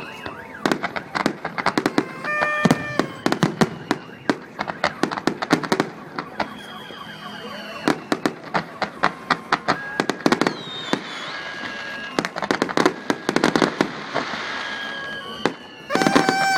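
Fireworks and firecrackers going off in quick succession: a dense string of sharp bangs and pops, with several whistles gliding down in pitch. A short steady horn-like tone sounds about two seconds in.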